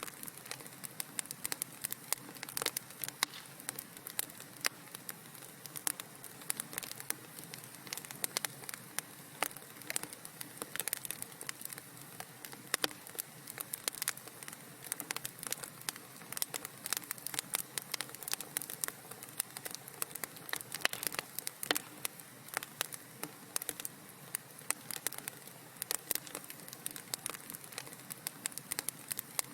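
Wood fire crackling in a fireplace: many sharp, irregular pops and snaps over a steady low hiss of the flames.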